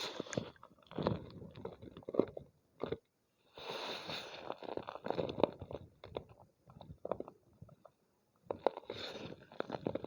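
Homemade gym chalk crunching and crumbling in clumps of small crackles, with short pauses between, the densest crunching about four seconds in and again near the end.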